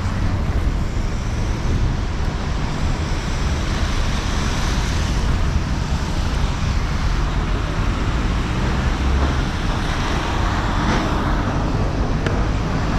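City street traffic noise, a steady wash of passing vehicles with a heavy low rumble. It swells as vehicles pass, loudest around ten seconds in.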